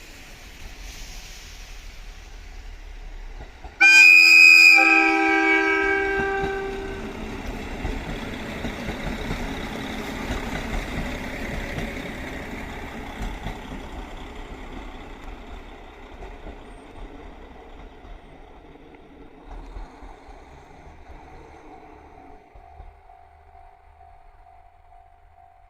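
A KiHa 40 diesel railcar sounds its horn, a loud chord that starts suddenly about four seconds in and lasts about three seconds. The diesel engines and wheel noise of the two-car train then run on, swelling and slowly fading as it moves away. Near the end a level crossing bell rings faintly with an even beat.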